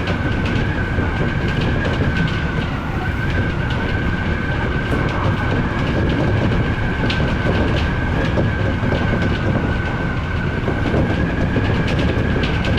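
Odakyu electric commuter train running at speed: a steady rumble with a high, steady whine over it and scattered sharp clicks of the wheels over rail joints.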